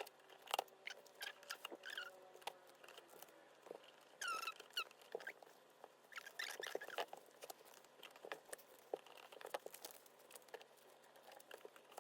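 Photocards in plastic sleeves being slid into a binder's plastic pocket pages: soft handling taps and clicks of plastic, with a couple of short squeaks of plastic rubbing on plastic about two seconds in and again a little after four seconds.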